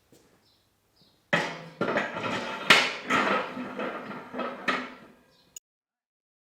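Metal clanking and knocking from a fry pan and steel fittings being handled on a welded steel firepit grill. There are several sharp clanks, the loudest about three seconds in, and the sound cuts off abruptly about a second before the end.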